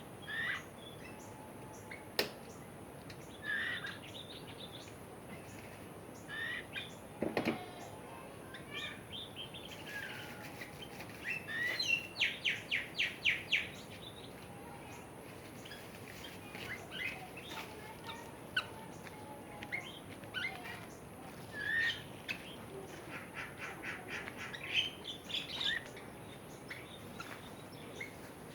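Several birds chirping and calling in short notes, with two runs of fast, evenly repeated notes, one about halfway through and one later.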